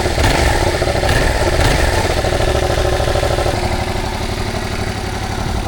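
Yamaha MT-07's 689 cc parallel-twin running steadily through an aftermarket RoadsItalia Thunder titanium slip-on exhaust, a deep, even pulsing exhaust note.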